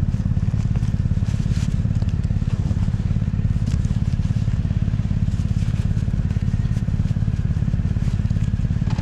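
BMW R1200GS Rallye's flat-twin boxer engine idling steadily, with a few faint light clicks over it.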